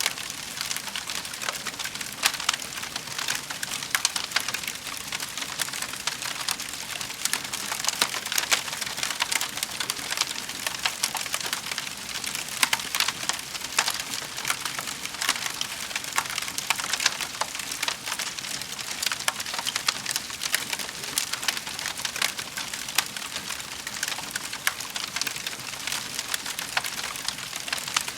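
Wood fire in a fireplace crackling steadily: a dense patter of small crackles with sharper pops from the burning logs now and then.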